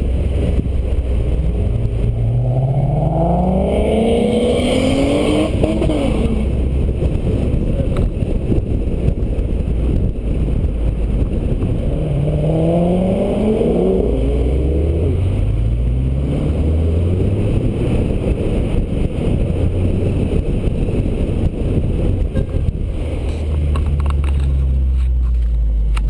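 Car engine accelerating through the gears twice, its pitch rising each time, about two seconds in and again about twelve seconds in. Between the pulls there is a steady low engine and road rumble.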